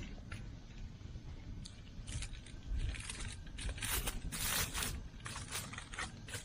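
A run of short, irregular scraping and crinkling handling sounds, busiest in the middle.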